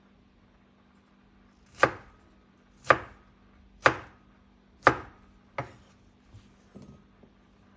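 Knife chopping on a cutting board: four sharp strokes about a second apart, then a lighter one and a few soft taps.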